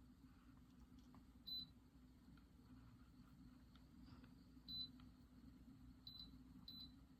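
Near silence: a faint steady low hum, with four short high-pitched electronic beeps, the last two close together.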